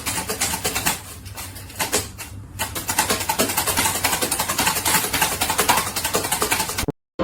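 A small motor running with a rapid, steady clatter, cutting off suddenly near the end.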